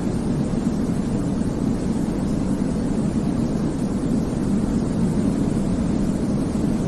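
Continuous sleep-aid noise for babies: a steady, deep, rumbling hiss weighted toward the low end, with no changes, beats or tones.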